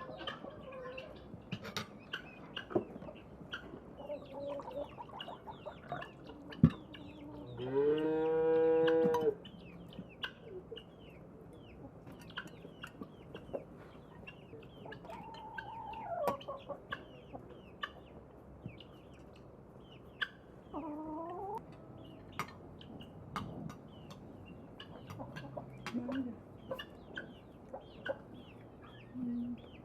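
Chickens calling and clucking now and then, with one loud, drawn-out call about eight seconds in. Small high chirps and ticks run throughout.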